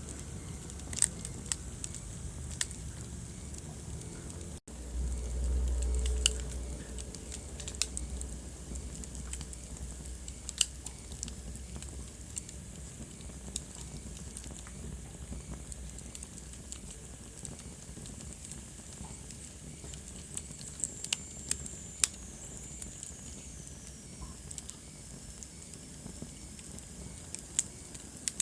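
Wood fire in a fireplace crackling, with irregular sharp pops over a low steady rumble of the flames. The sound briefly drops out about four and a half seconds in, and the rumble is stronger for a few seconds after. A faint high whistle falls in pitch about three-quarters of the way through.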